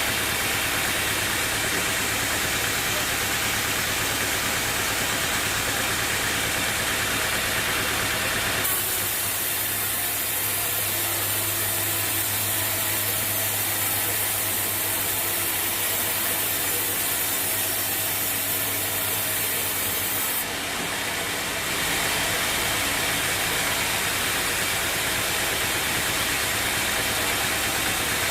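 Sawmill machinery running steadily: a constant machine hum under a hiss, with a sharper high hiss from about 9 to 20 seconds in before the sound shifts back.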